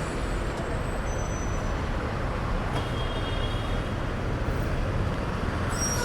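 Motorcycle running in road traffic: a steady rumble of engine and traffic noise, with a faint high tone briefly about three seconds in.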